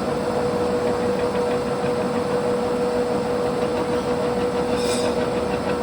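A large 20-inch American Pacemaker engine lathe running, with a steady mid-pitched whine over broad machine noise.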